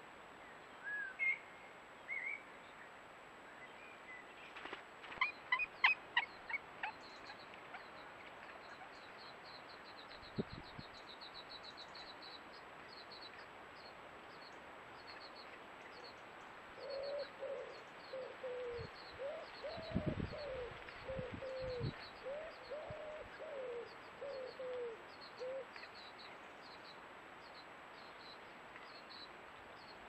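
Wild birds calling: a few short chirps, then a short series of loud calls, followed by a long run of rapid high-pitched notes. In the middle a slower series of low, down-bending notes repeats for several seconds.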